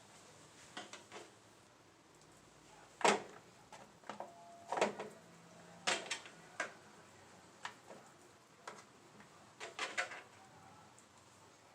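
A series of short knocks and clicks of objects being handled and set down, about a dozen in all, the loudest about three seconds in and a quick cluster near the end.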